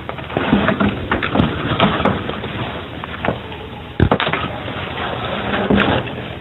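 Irregular sharp knocks and thumps over a steady hiss in a heavily amplified field recording, with about half a dozen strikes at uneven spacing and the sharpest about four seconds in.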